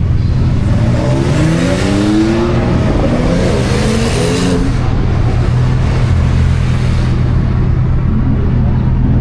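A car engine revving as it accelerates past, its pitch rising for a couple of seconds, loudest about four seconds in, then fading away, over a steady low engine hum.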